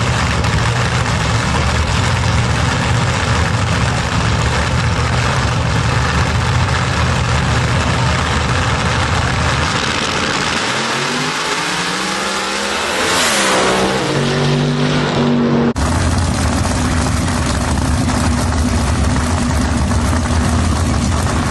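A loud, lumpy race engine idling steadily. About ten seconds in, it gives way to an engine accelerating with a rising pitch that peaks a few seconds later and holds a steady note. An abrupt cut then returns to the idle.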